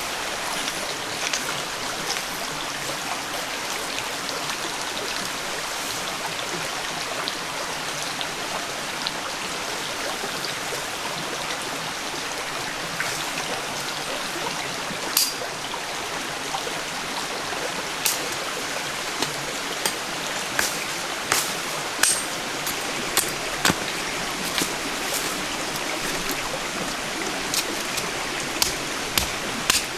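Steady rushing of water, with sharp short taps or knocks that start about halfway through and come more often near the end.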